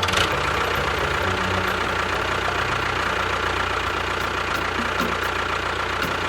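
An engine running steadily at idle, with a fast, even chatter.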